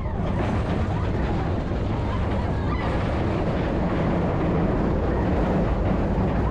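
Mine-train roller coaster running along its track: a loud, steady rumble with heavy low-end noise.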